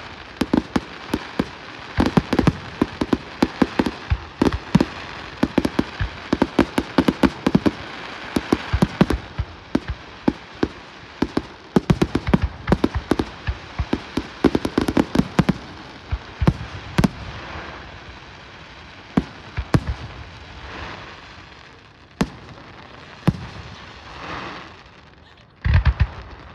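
Fireworks display: a dense, rapid run of bangs and crackles for the first two-thirds, thinning to scattered single bangs, with a loud burst of several bangs near the end.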